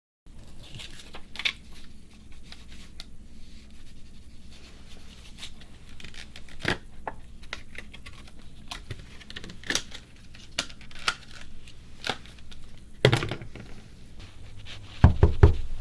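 Close, irregular crinkling and crackling of something being handled, scattered sharp snaps throughout, with a few heavier low thumps near the end.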